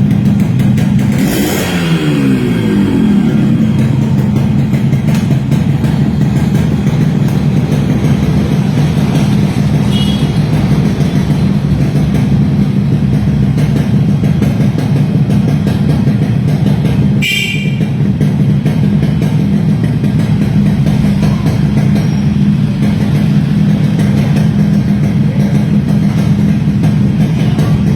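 Yamaha RXS 115's two-stroke single-cylinder engine idling steadily, after a blip of the throttle whose revs fall away about two seconds in. A short sharp sound cuts in once, about seventeen seconds in.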